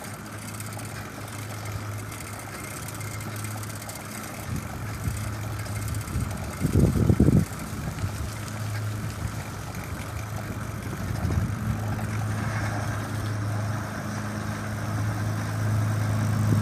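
A motor vehicle's engine running steadily nearby, growing louder near the end, over wind and road noise, with a brief loud low rumble about seven seconds in.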